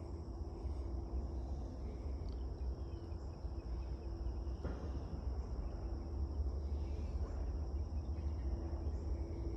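Insects chirring in a steady, high-pitched chorus over a low rumble, with a faint steady hum underneath.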